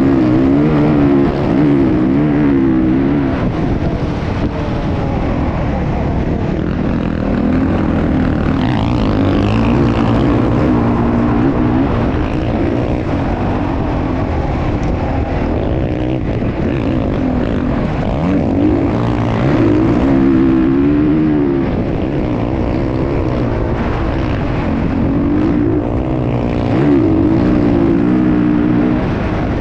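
Motocross motorcycle engine running, its pitch rising and falling as the throttle is opened and eased off again and again.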